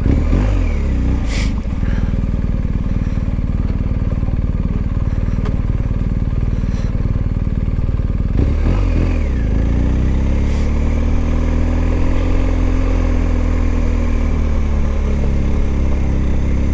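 Motorcycle engine running under way as it pulls off and rides. The pitch changes near the start, then the engine revs up again about halfway through and slowly eases off.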